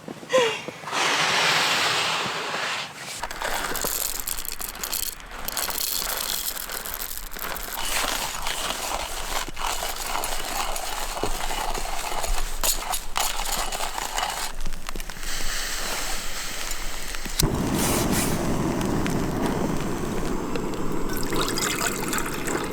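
Water being poured and trickling, with sharp clicks and knocks from camp-kitchen gear being handled. The background sound changes abruptly twice.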